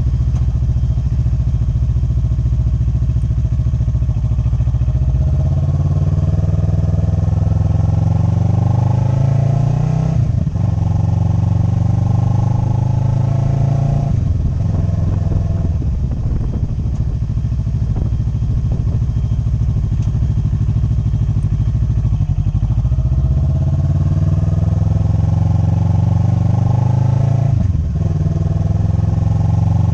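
Motorcycle engine under way. It runs steadily at first, then accelerates, with the revs climbing and dropping back at each upshift: one about ten seconds in, another about four seconds later, and a third near the end.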